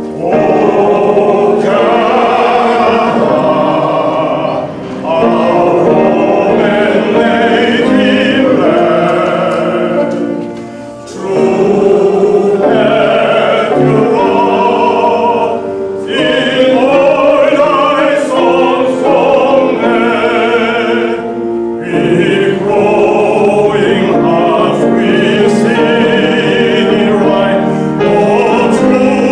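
A national anthem sung by many voices to piano accompaniment, in phrases with short pauses between them.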